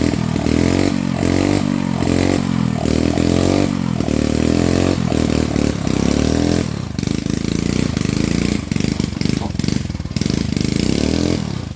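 Small petrol engine revved in quick repeated blips, about two a second, then held at a steadier speed for the last few seconds.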